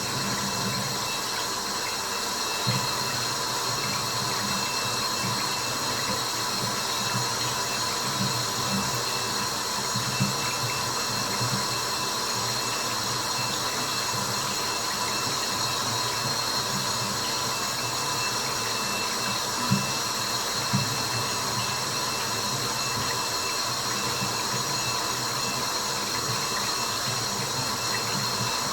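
Steady white-noise hiss with a few faint steady tones running through it, and occasional soft low plops of water drops, a couple of them louder about ten and twenty seconds in.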